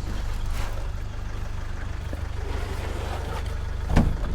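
A motor vehicle's engine running with a steady low rumble, with a single knock about four seconds in.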